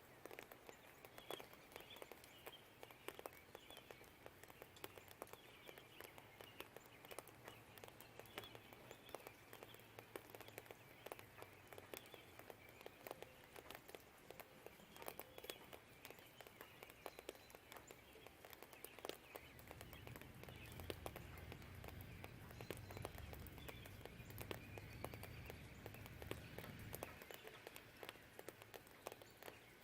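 Light rain dripping and tapping in scattered sharp ticks, with faint birdsong chirping in the distance. From about two-thirds of the way in, a low rumble swells for several seconds and then drops away: distant thunder or passing traffic.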